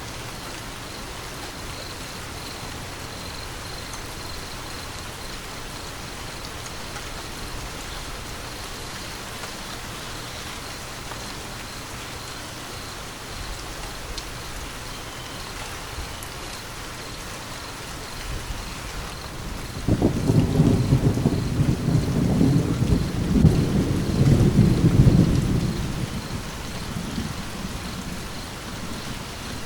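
Steady rain falling, with a roll of thunder breaking in sharply about two-thirds of the way through, swelling for several seconds and then fading back into the rain.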